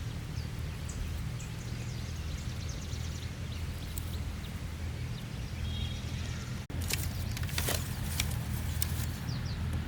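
Outdoor ambience: a steady low hum with faint bird chirps. After a brief dropout about two-thirds of the way in, a run of sharp knocks.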